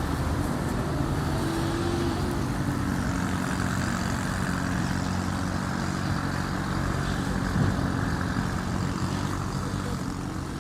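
A steady engine hum with a low pitched drone, and a single brief knock about three quarters of the way through.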